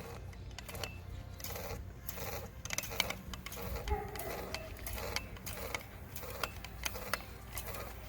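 Air pump being worked by hand to pressurize a water bottle rocket, giving a string of irregular mechanical clicks and knocks.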